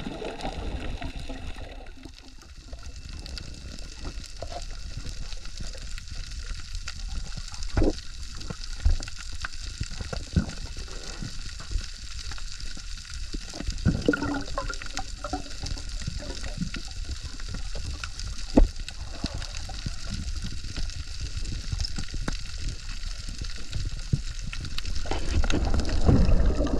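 Steady hiss of rushing, churning water with a low rumble underneath and scattered short knocks and thumps.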